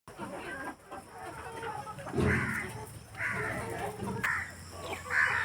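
Rhode Island Red hens calling, a run of four calls about a second apart.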